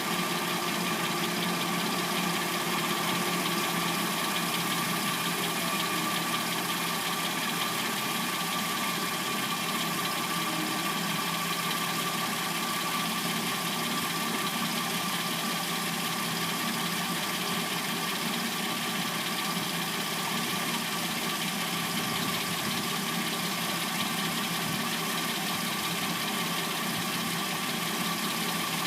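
Hyundai Sonata replacement engine idling steadily when warm, with a light clacking noise that the owner takes for the timing chain.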